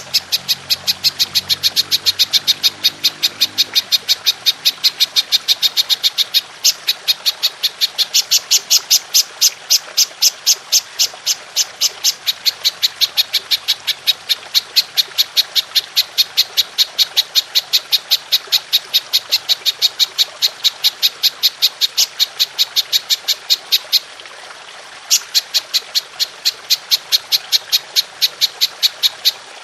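Belalang emas katydid calling in a long, fast train of high, regular chirping pulses, about four to five a second. It breaks off for about a second near the end, then resumes and stops. Trickling water runs steadily underneath.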